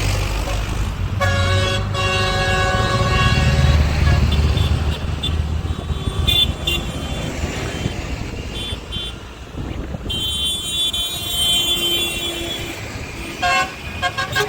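Vehicle horns honking over the steady low rumble of tractor engines: one held horn blast about a second in lasting a couple of seconds, and more tooting later.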